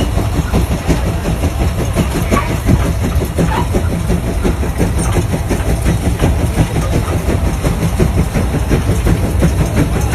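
A heavy engine running steadily with a rapid, even chugging.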